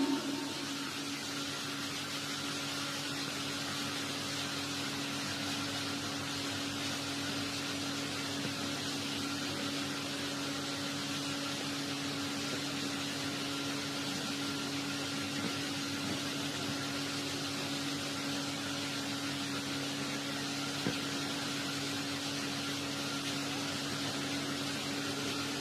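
Steady hum with an even hiss, with no speech or music.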